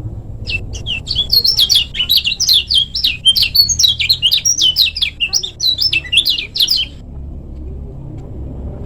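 Kecial kuning (a yellow white-eye) singing a fast, unbroken chattering song of quick rising and falling high notes for about six seconds, then stopping, over a steady low rumble.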